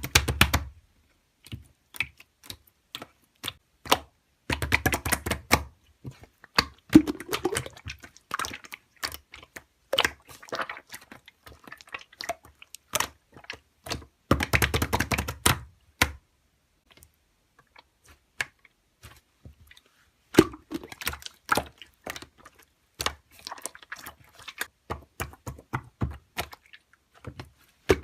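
Slime being squeezed, stretched and poked by hand, giving a stream of small crackling clicks and pops, with denser bursts of squishing twice, and a sparser, quieter stretch a little past the middle.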